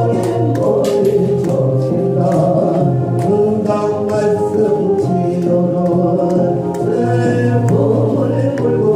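Korean gospel praise song: a sung melody over instrumental accompaniment with a steady beat.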